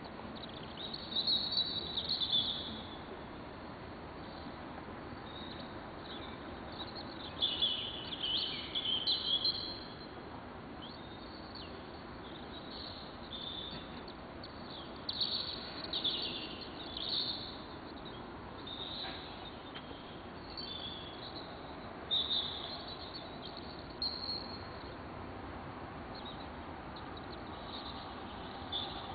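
Birds singing and chirping in short, repeated phrases, over steady background noise.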